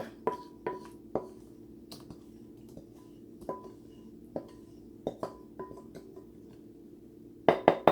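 A utensil knocking and scraping against a bowl and pan as thick batter is scooped out, with scattered light clicks and a quick run of louder knocks near the end. A faint steady hum runs underneath.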